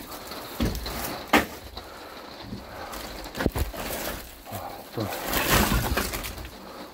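Split firewood being handled and stacked: a sharp wooden knock about a second in, a few more knocks near the middle, and a longer rustling scrape of logs shifting later on.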